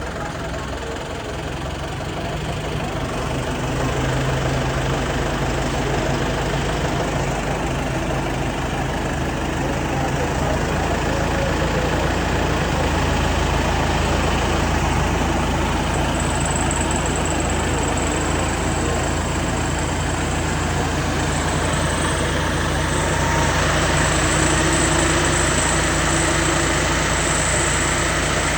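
Tractor engine running steadily while driving a hydraulic pruning attachment, growing louder over the first few seconds. A thin high whine comes in about halfway through and continues.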